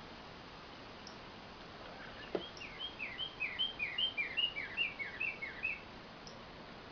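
A songbird singing a fast series of repeated two-note phrases, each a short high note followed by a downward slur, about three a second for some three and a half seconds, after a single click.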